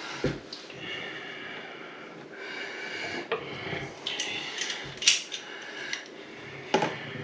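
A few sharp clicks and knocks from handling a bathroom faucet, with a faint high hiss coming and going in between.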